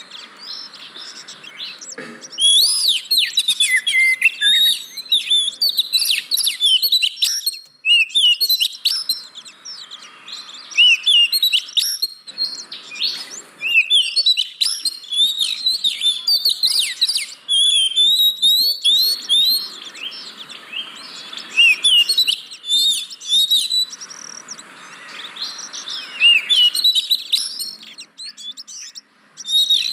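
Oriental magpie-robin (kacer) singing, played as a lure song to set off a bird that is slow to sing: rapid, varied phrases of whistles and chirps that slide up and down, in bursts of several seconds with short pauses between them.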